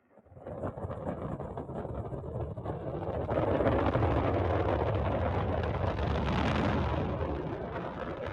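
Delta II rocket engine roar at liftoff: a deep, crackling rumble that starts suddenly, builds over the first few seconds, and eases off near the end as the rocket climbs away.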